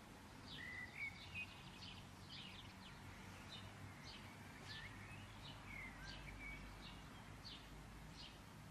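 Near silence: faint room tone with scattered faint bird chirps in the background.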